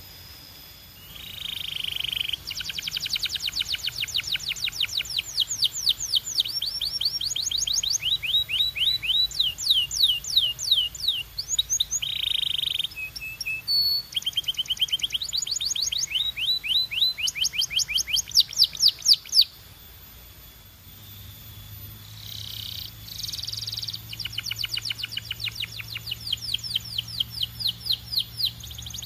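Domestic canary singing: fast trills of repeated short, falling notes, about eight a second, strung into several phrases with a brief pause about two-thirds of the way through.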